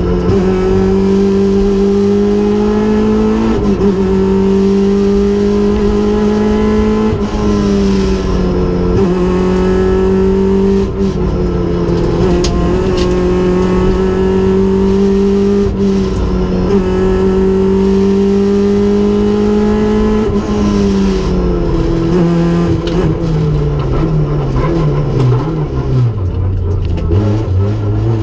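Rally car engine heard from inside the stripped cockpit, running hard at high revs with brief dips every few seconds. Over the last several seconds the engine note falls in several steps as the car slows and changes down, then picks up again at the very end.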